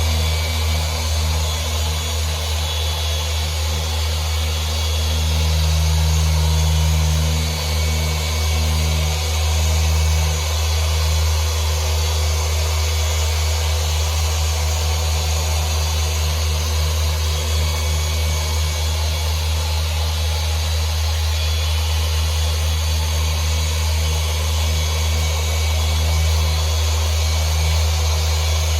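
Electric machine polisher running at speed 5, its pad working glass polish across a car windshield: a loud, steady motor hum with a low drone and a faint wavering.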